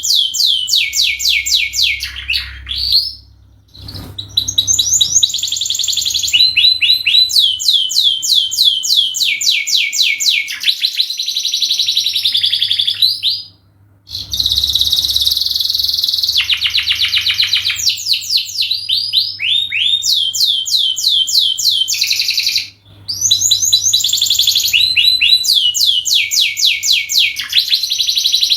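Domestic canary singing a long, continuous song of rapid trills, each a fast run of repeated sweeping notes, broken by brief pauses about three and a half seconds in, near the middle and about three quarters of the way through.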